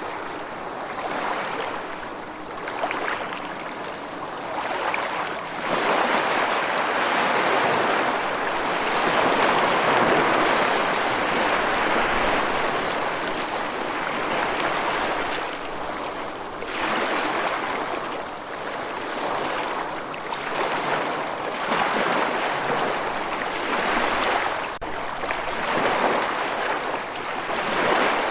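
Continuous rushing water, swelling and easing every few seconds like surf or a fast-running river.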